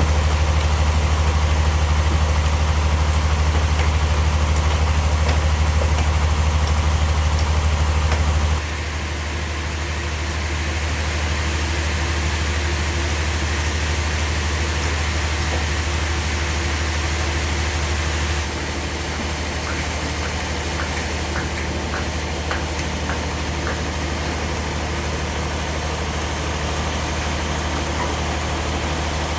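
An engine running steadily with a deep hum. Its level drops suddenly about a third of the way in and again a little past halfway, with a few faint ticks near the end.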